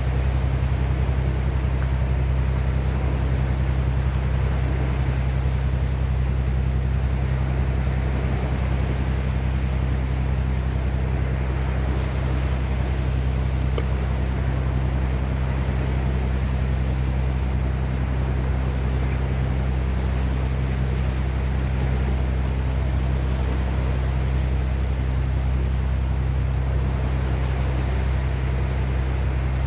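Steady low mechanical drone under a constant rush of wind and sea, even throughout, with no single wave standing out.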